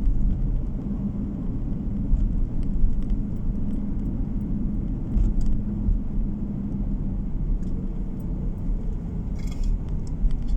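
Car driving along a road, heard from inside the cabin: a steady low rumble of tyres and engine with a faint even hum.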